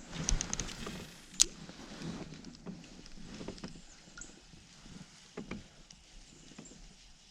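Clicks and knocks from gear being handled aboard a kayak, with a quick cluster of rattles at the start, one loud sharp click about a second and a half in, and scattered quieter knocks after.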